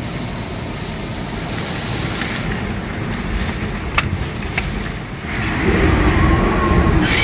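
Summer storm wind buffeting the microphone over a rushing rain noise, with a couple of sharp clicks about four seconds in. A little after five seconds it grows louder and a wavering pitched hum joins it.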